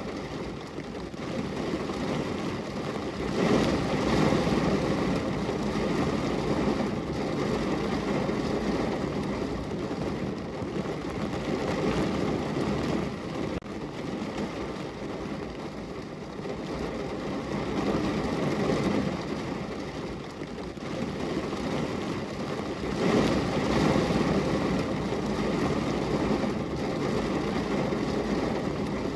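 Rain falling on a window, a steady wash of noise that swells louder twice, near the start and again near the end.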